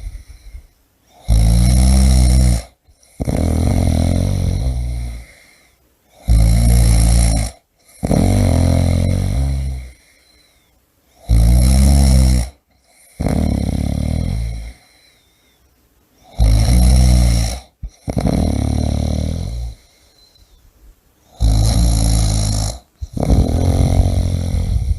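A person snoring steadily: about every five seconds a short, deep snore followed by a longer, softer breathy one, with brief pauses between breaths.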